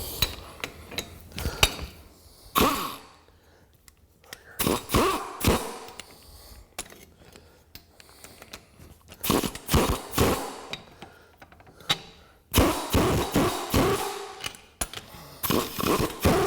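Irregular metallic clicks and clanks in short clusters with pauses between: hand tools working on U-bolt nuts, snugging them down on the leaf-spring plate.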